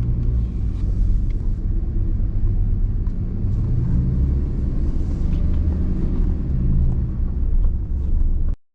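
Pickup truck driving on the road: a steady low rumble of engine and tyres that cuts off abruptly near the end.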